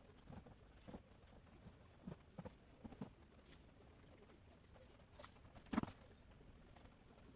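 Near silence broken by a few faint, short taps or knocks, the loudest a little before six seconds in.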